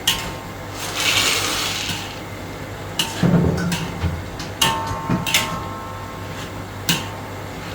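A metal spatula knocking and scraping against a wok while stir-frying, with several sharp clanks that ring briefly and a short hissing scrape about a second in.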